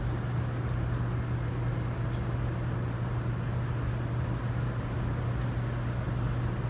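Steady low hum over a rumbling, hissy background, with no singing or speech: the room tone of a large space.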